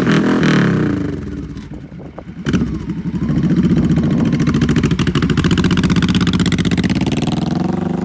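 2005 Honda VT1100 Sabre's liquid-cooled V-twin, through straight exhaust pipes, revving and then running steadily. It drops away about two seconds in, comes back sharply, and fades near the end.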